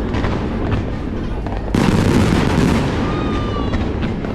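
Fireworks going off: a sudden loud burst about two seconds in, its rumble lingering and fading, over the continuing low rumble of other shells. A short thin whistling tone near the end.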